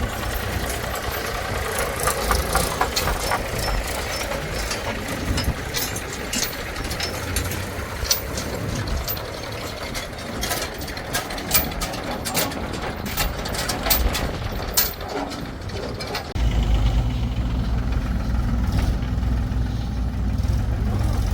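Diesel engines of a backhoe loader and tractors running, with many sharp knocks and clanks. About 16 s in, a louder steady low engine drone suddenly takes over.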